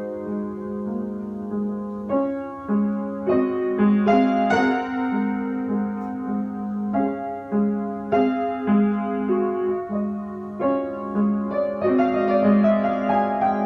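Background piano music: a slow, gentle piece of sustained chords and melody notes, changing every second or so.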